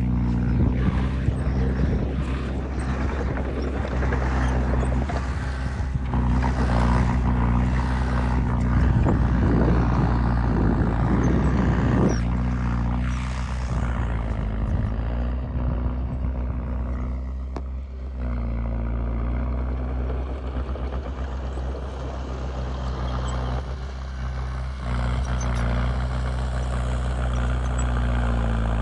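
Heavy diesel engine of earth-moving machinery running steadily, its pitch shifting slightly a few times as the load changes. A rougher, louder noise rides over it for the first several seconds, then eases off.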